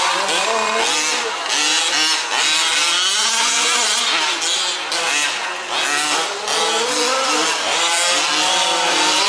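Several 1/5-scale remote-control off-road trucks racing, their small two-stroke petrol engines revving up and down at once as they throttle and brake around the track.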